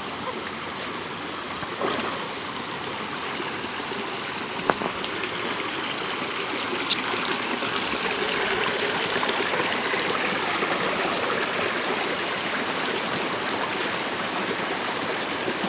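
River water running over rocks, a steady rushing and gurgling that grows slightly louder partway through. A few sharp clicks stand out, one at about two seconds, one near five and one near seven.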